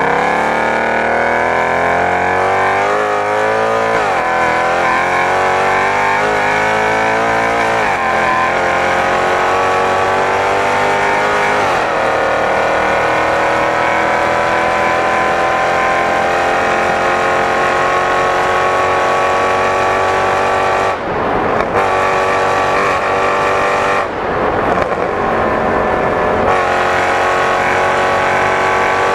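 Mercedes-Benz C63 AMG's 6.2-litre V8 accelerating hard through the gears: the engine note climbs and falls back at upshifts about 4, 8 and 12 seconds in, then rises slowly through a long pull in a high gear. Late on it briefly drops away twice.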